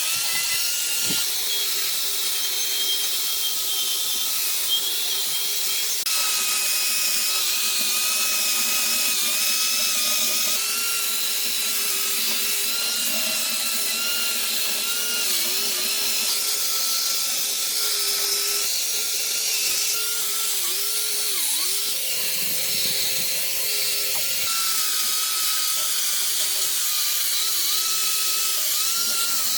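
Handheld electric power tool running steadily, a continuous motor whine over a dense gritty hiss, the pitch sagging briefly several times as the tool is pressed into work.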